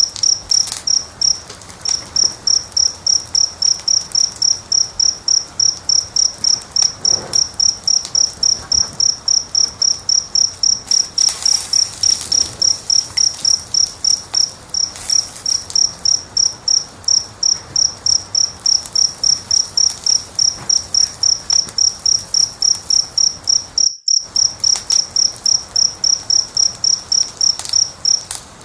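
A cricket chirping steadily, about three high-pitched chirps a second, over faint crackles of a wood fire. The sound cuts out for a split second late on.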